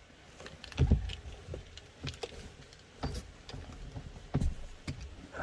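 Scattered soft thumps and clicks from handling and movement, the loudest low thump about a second in, over a faint steady background hiss.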